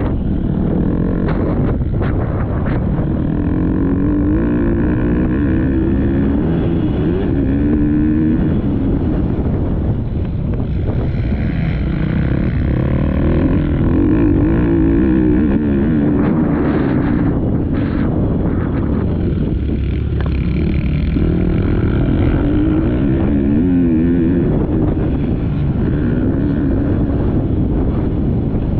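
Motocross bike engine revving up and down as it is ridden around the track, its pitch rising and falling in repeated surges, with wind buffeting the onboard camera's microphone and a few short knocks.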